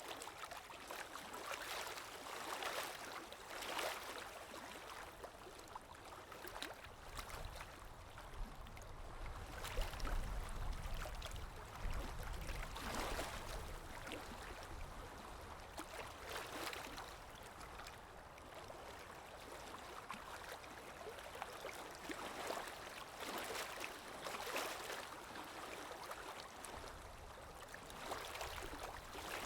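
Water lapping in gentle washes every second or two, over wind that swells into a low rumble around the middle.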